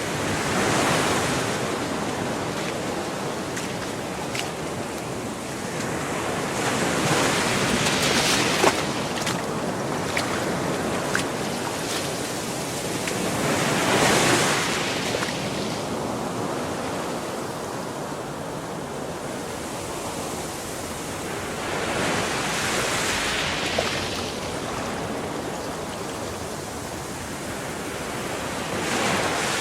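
Gulf of Mexico surf: small waves breaking on the sand, each wash swelling and fading about every six to eight seconds over a steady hiss of water, with a few short ticks in between.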